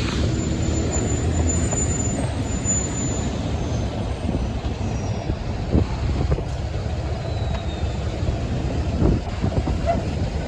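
Heavy truck traffic on an expressway: a steady low rumble of diesel engines and tyres, with a thin high whine in the first few seconds.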